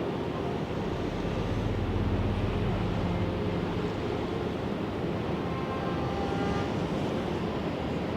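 Steady wind and ocean surf, with a low engine drone that swells about a second and a half in and fades after about four seconds.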